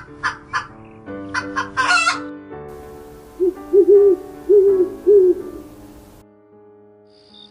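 Chickens clucking in a quick run of short calls, ending in one longer squawk about two seconds in, then four low hoots a little past the middle, over background music.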